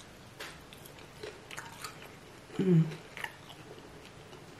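A person chewing and biting a chicken wing: scattered wet smacks and small clicks of the mouth.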